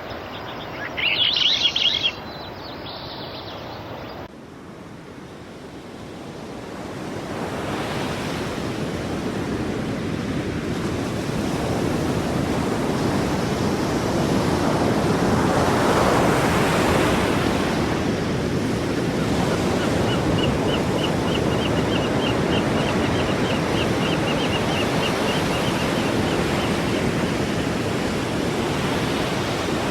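Sea surf washing ashore, a steady rush of breaking waves that builds to its loudest about halfway through and then holds. It is preceded by a few seconds of loud chirping that cut off abruptly about four seconds in.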